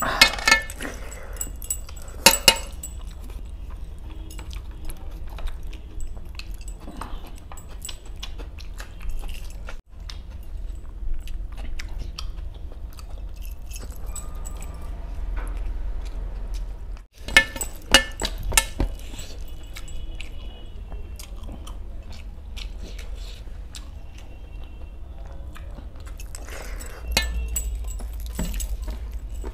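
Close-up eating sounds: a man chewing and smacking mouthfuls of spicy whole fish eaten by hand, with scattered wet clicks. Clusters of sharper clicks and clinks come from his heavy metal bracelets and rings now and then.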